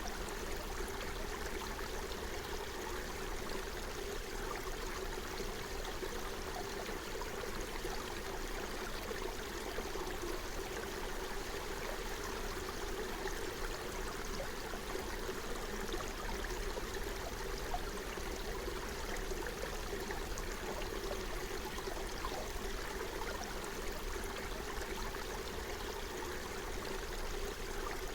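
Forest stream flowing and burbling steadily over stones.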